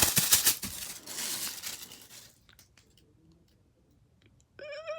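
A plastic blind bag being torn open and crinkled, a dense crackling that lasts about two seconds and then dies away. Near the end a short, high, wavering voice-like sound.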